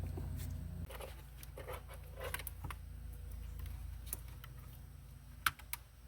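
Scattered small clicks and rustles of plastic dashboard parts and wiring being handled, with one sharp click about five and a half seconds in, over a low hum that drops about a second in.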